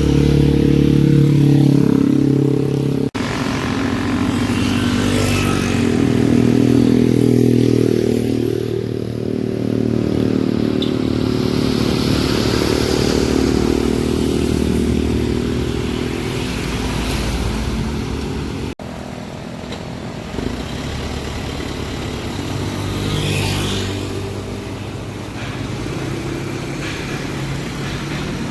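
Diesel engines of heavily loaded trucks labouring up a steep climb in low gear, a steady deep engine note throughout. The sound changes abruptly twice, about three seconds in and about two-thirds of the way through.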